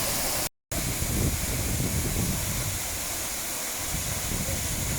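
Waterfall water rushing steadily over a rock slab, cut by a brief gap of silence about half a second in.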